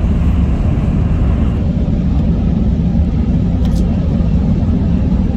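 Shinkansen bullet train running at speed, heard inside the car as a steady low rumble.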